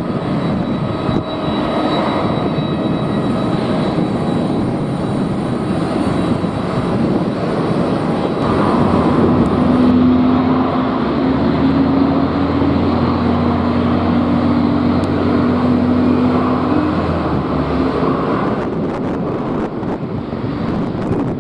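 Jet airliner's engines passing, a steady roar that swells to its loudest about halfway through. A low steady drone and hum hold for several seconds in the middle before easing off.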